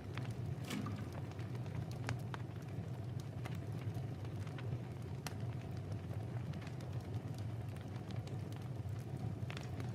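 Wood fire in a fireplace crackling, with sparse sharp pops at irregular intervals over a steady low rumble.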